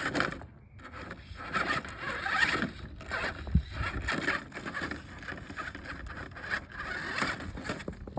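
Small toy offroad truck moving over rough ground: irregular scraping and crunching of its wheels and body, with a knock about three and a half seconds in.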